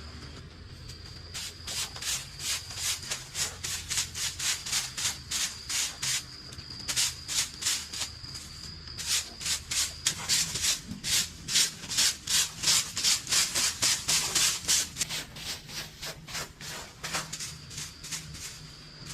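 Rhythmic back-and-forth rubbing strokes, about two to three a second, like hand sanding or scrubbing. They start about a second in, grow louder in the middle and stop near the end.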